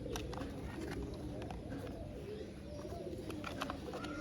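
Pigeons cooing in the background, with scattered light clicks and rattles of plastic toy vehicle parts being handled and snapped together.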